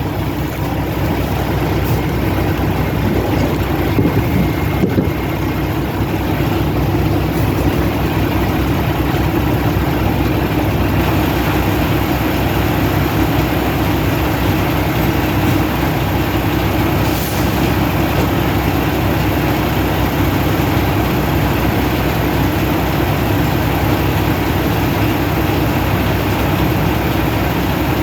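Semi-truck diesel engine idling steadily, with a brief hiss about two-thirds of the way through.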